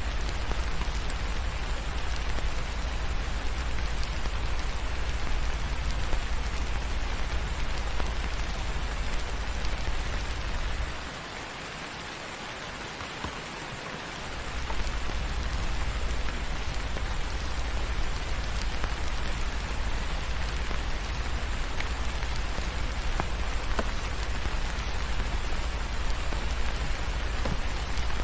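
Steady rain falling in a dense, even hiss, with a deep low rumble underneath and a few faint scattered ticks. The low rumble drops away for about three seconds near the middle, then comes back.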